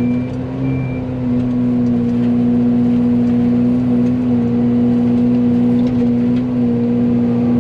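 Excavator running with its Fecon forestry mulcher head spun up at speed, a steady high hum. Two short high beeps sound in the first second.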